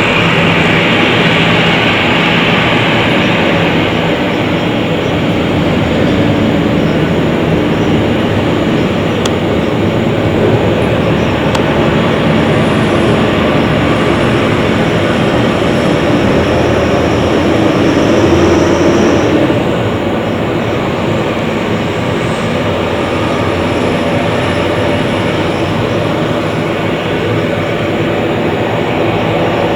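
Jet engines of an Airbus A340-300 running steadily, a continuous loud rush with a steady whine in it, swelling slightly and then easing back about two-thirds of the way through.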